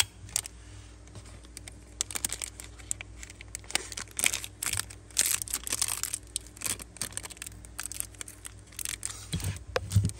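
Handling noise around a Zippo lighter: scattered sharp clicks and a stretch of crinkling, rustling, busiest in the middle, over a faint steady hum.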